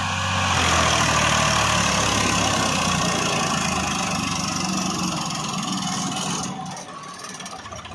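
Tractor diesel engine running steadily; the sound drops sharply in level about six and a half seconds in.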